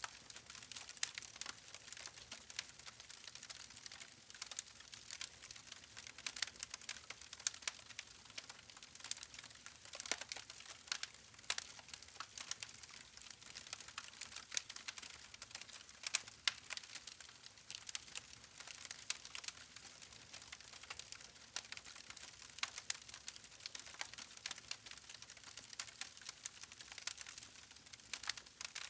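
Wood campfire crackling: burning logs give off irregular sharp snaps and pops, many a second, over a faint steady hiss.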